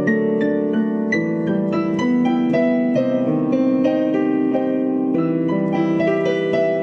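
Slow, gentle solo piano piece playing sustained chords with a melody over them.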